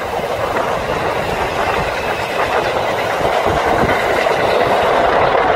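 Electric train running on the rails, a steady rush of wheel and track noise that grows a little louder toward the end.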